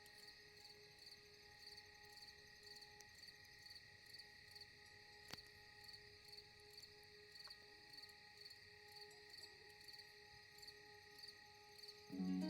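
Faint insect chirping, cricket-like, in a steady rhythm of about one and a half chirps a second over faint held tones. A single sharp click comes about five seconds in, and a louder low tone starts just at the end.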